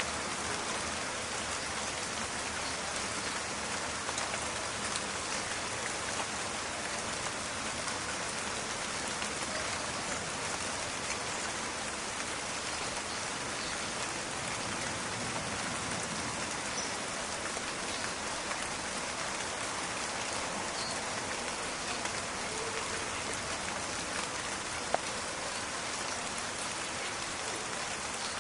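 Steady rain falling, a dense crackling patter of many drops. A single sharper tick stands out about 25 seconds in.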